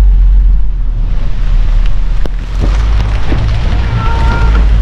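Tropical-storm wind buffeting the microphone: a loud low rumble that rises and falls in gusts. A brief high-pitched squeal sounds about four seconds in.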